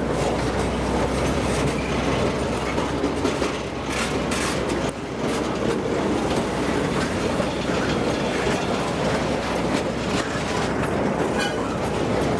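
Train rolling past close by, its wheels clattering over the rails in a steady, dense din with scattered clicks.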